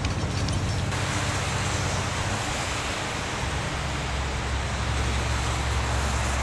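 Semi-truck driving at highway speed: a steady low engine drone under a rushing haze of tyre and wind noise. The low drone shifts lower about four seconds in.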